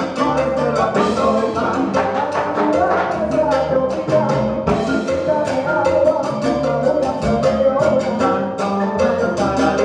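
Live band playing a Latin-style song, with instruments over a steady percussion beat.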